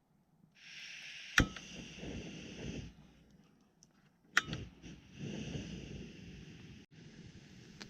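Hot oil sizzling as karaage fries, starting suddenly about half a second in, dying down near 3 s and picking up again around 5 s, with two sharp clicks.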